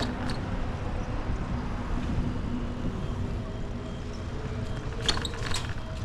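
Wind rumble and road noise while riding a bicycle outdoors, with a faint steady motor hum. A few sharp clicks come about five seconds in.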